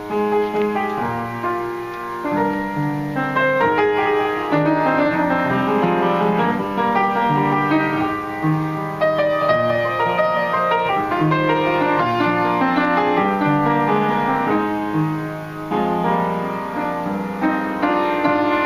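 Solo piano playing a song's introduction: sustained chords and a melody line, at an even, moderate tempo.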